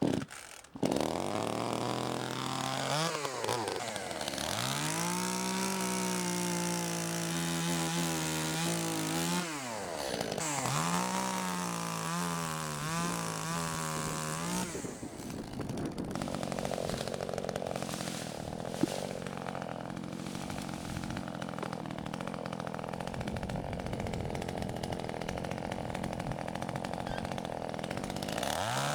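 Shindaiwa E1027TS two-stroke chainsaw catching on a pull start, then running and revving up and down twice. From about halfway it runs at high speed with a rougher, noisier sound, and it drops back near the end.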